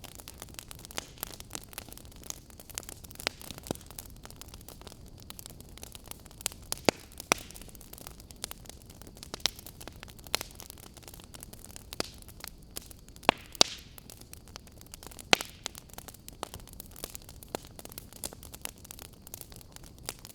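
Wood fire crackling in a fireplace: irregular sharp pops and snaps, a few of them louder, over a steady low hiss.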